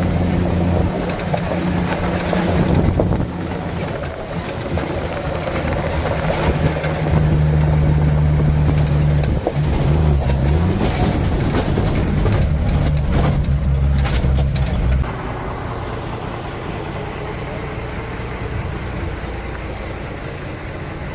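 A motor vehicle's engine running steadily close by, with a brief rise and fall in pitch about ten seconds in and a few sharp knocks. It drops away about fifteen seconds in, leaving softer background noise.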